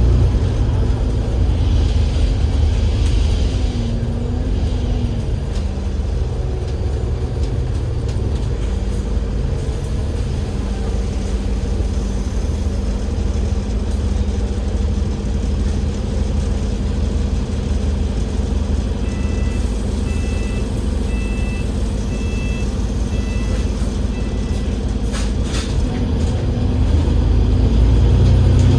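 Cabin sound of a Euro VI Alexander Dennis Enviro500 MMC double-decker bus with a Cummins L9 diesel engine: a steady low engine drone with a constant hum, growing louder near the end. About two-thirds of the way through comes a run of short electronic beeps.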